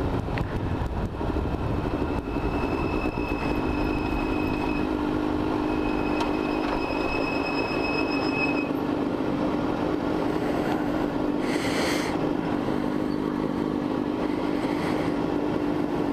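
Motorcycle engine running steadily on the road, with road and wind noise. A faint thin whine sounds twice, each for about two seconds, and a short hiss comes about three quarters of the way through.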